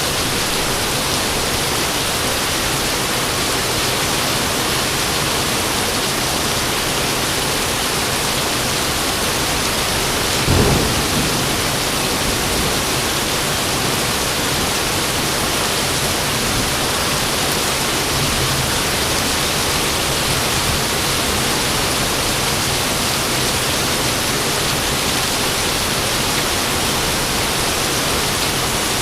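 Steady rain falling, with one short clap of thunder about ten seconds in that fades into a brief low rumble.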